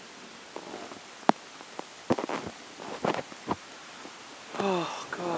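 Light rain hissing steadily, with a handful of single drops ticking sharply close to the microphone; the loudest tick comes about a second in. Near the end there is a short voice-like sound that falls in pitch.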